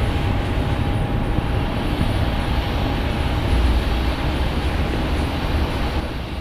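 Airliner engines: a loud steady rumble that eases off near the end.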